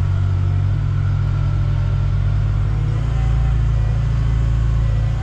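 An engine running steadily at idle: a continuous low hum with a slight change in its low tone about three seconds in.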